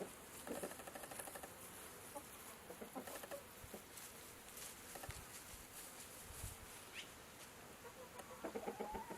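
Chickens clucking faintly in short, scattered bursts.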